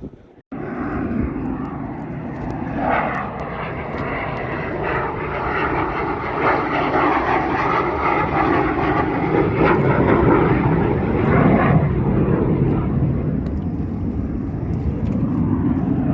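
Aircraft engine noise from a fixed-wing airplane flying over, a loud steady roar that starts abruptly about half a second in and swells slightly in the middle.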